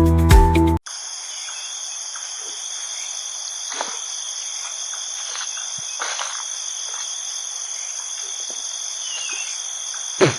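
Music cuts off under a second in, giving way to a steady chorus of night insects, crickets, trilling at several high pitches. Faint scattered clicks run through it, with one sharper click near the end.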